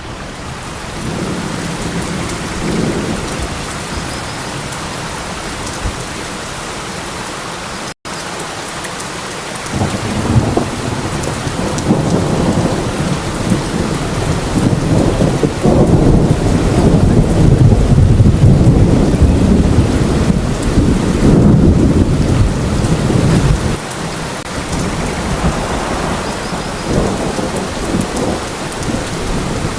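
Steady heavy rain with rolling thunder: a deep rumble builds about a third of the way in, is loudest past the middle, and eases near the end. The sound cuts out for an instant about eight seconds in.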